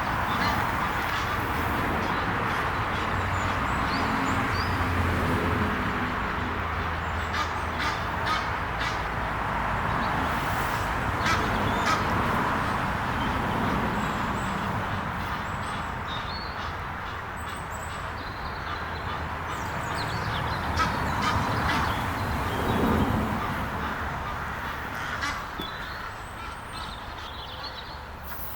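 Egyptian geese calling on and off with honking, quacking calls over a steady rushing background noise; small birds chirp faintly above.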